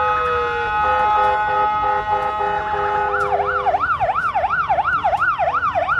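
Electronic siren sound from a toy military police car. It holds steady tones for about three seconds, then switches to a fast rising-and-falling wail, about two and a half cycles a second.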